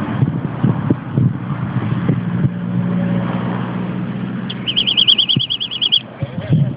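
Wind buffeting the microphone, with a low steady hum for a couple of seconds midway. About four and a half seconds in, a fast trill of evenly spaced high chirps runs for over a second.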